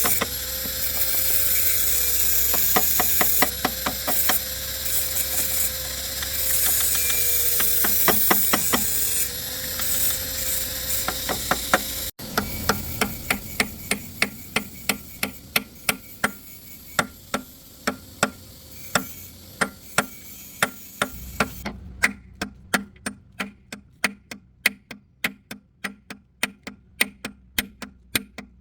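Hand-tool work on excavator parts: a long run of sharp metal strikes or knocks, a couple or more each second, over a steady hiss in the first half. After an abrupt cut near the middle, the strikes carry on more evenly over a quieter background.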